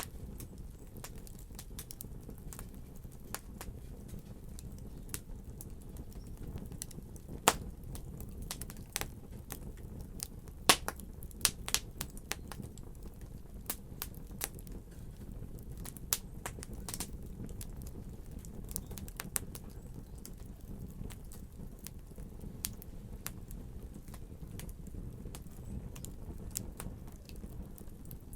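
Wood fire burning, with irregular sharp crackles and pops over a steady low rumble; a few pops stand out louder, one about a third of the way in and a cluster a little before the middle.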